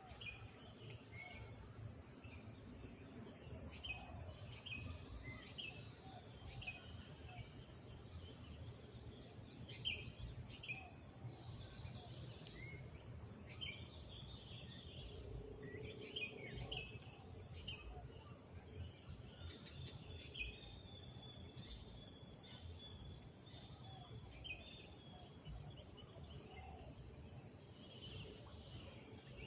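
Village morning ambience: small birds giving short, repeated chirps, over a steady high insect drone and a low background rumble.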